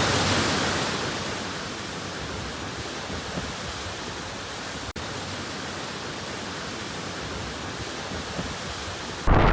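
A steady, even rushing hiss with no distinct events. It eases down in level over the first couple of seconds, then holds steady, and cuts off abruptly near the end.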